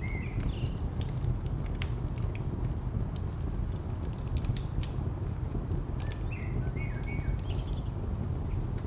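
Wood fire crackling with scattered sharp pops over a steady low rumble of distant traffic. A bird chirps briefly at the start and again about six to seven seconds in.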